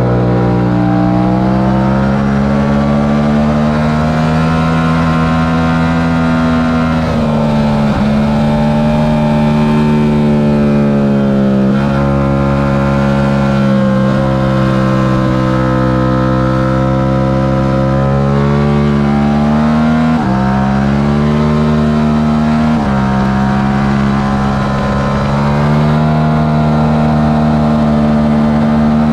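Yamaha R7's 689 cc parallel-twin engine running hard under race load, its pitch climbing steadily and then dropping sharply several times, as at gear changes or off-throttle moments.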